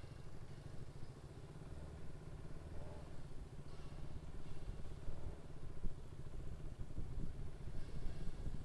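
Motorcycle running while being ridden: a steady low rumble of engine and road noise.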